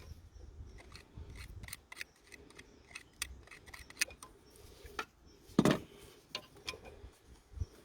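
Scattered light metallic clicks and taps of a bolt and hand tools being handled while the injector clamp bolt is refitted, with one louder knock a little past halfway.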